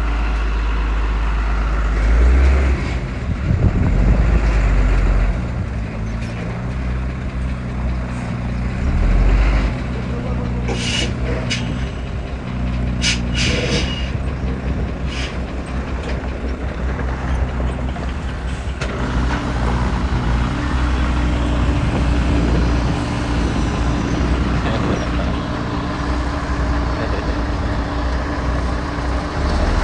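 Diesel engines of heavy earthmoving machinery, a small bulldozer and dump trucks, running steadily with a low drone that swells a few times. Several short, sharp sounds come between about eleven and fifteen seconds in.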